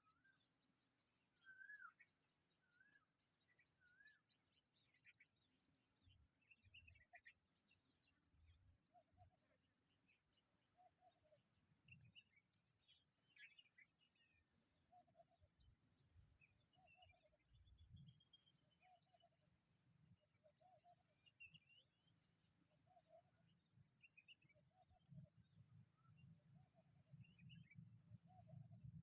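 Faint outdoor birdsong ambience: a steady high insect drone, a few short rising chirps in the first seconds, then scattered faint chirps and a short low call repeating about every second and a half. A low rumble builds near the end.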